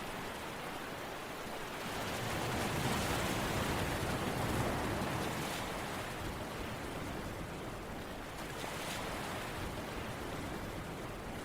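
Ocean surf: a steady rush of water noise that swells up about two seconds in and eases back a few seconds later, as a wave washes in.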